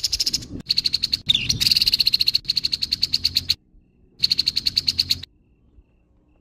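Grey-headed babbler giving its harsh call: a rapid, rasping chatter of many quick notes in several bursts with brief breaks, stopping a little past five seconds in.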